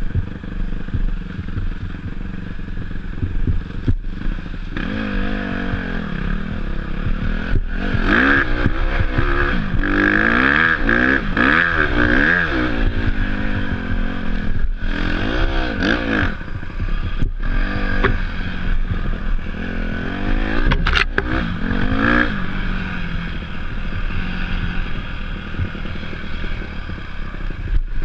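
Off-road motorcycle engine under riding, revving up and falling back again and again as the throttle is worked, with scattered knocks and rattles from the bike over rough ground.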